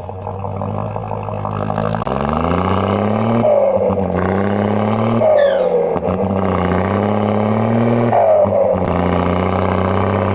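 Diesel-style engine sound of a miniature RC vehicle accelerating. Its pitch climbs and drops back several times, as through gear changes, with a short falling chirp at each change.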